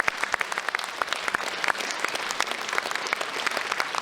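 Audience applauding: many hands clapping steadily at a live concert.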